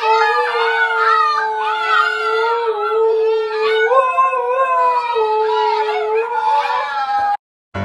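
An adult husky and several husky puppies howling together: one steady, lower howl held beneath several higher, wavering howls. The chorus cuts off suddenly near the end.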